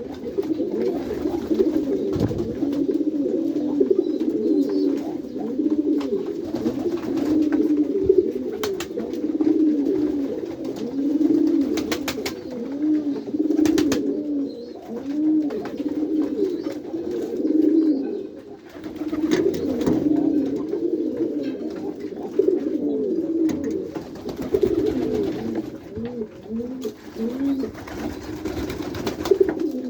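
A flock of domestic pigeons cooing together in a loft, many coos overlapping without a break. A few brief sharp clicks sound over them.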